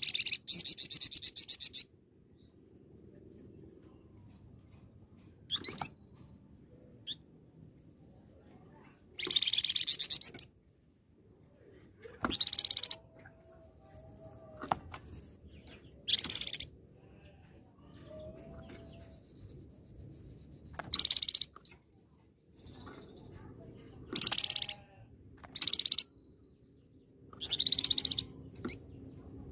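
Flamboyan songbird singing loud bursts of rapid, high trilled notes, each about a second long, repeated every few seconds.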